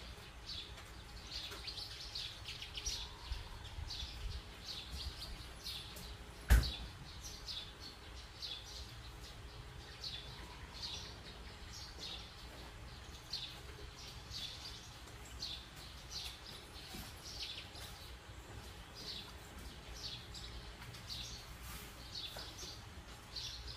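Small birds chirping over and over in short, high chirps. A single sharp knock sounds about six and a half seconds in.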